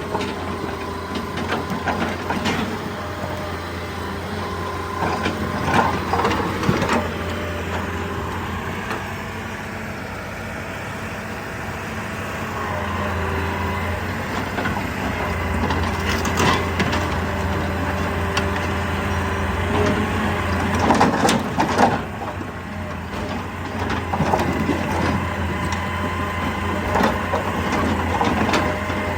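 Excavator at work: its diesel engine running steadily under load, with irregular knocks and scrapes of rock being broken and moved.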